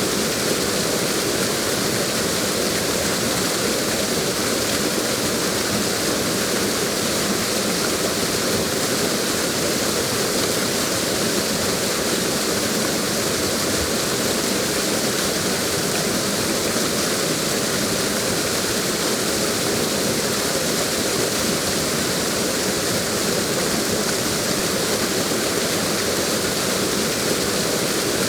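Waterfall rushing, a steady, unchanging roar of falling water.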